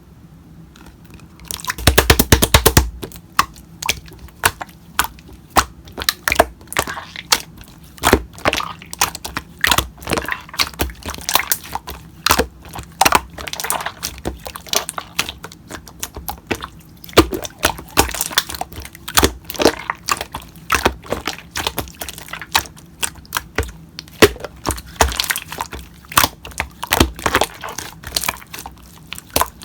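Slime being squished and kneaded by hand, giving irregular crackling clicks and pops, with a fast run of clicks about two seconds in.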